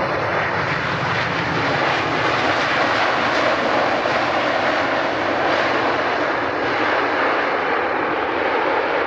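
Airliner's jet engines passing close by, a loud steady rushing noise.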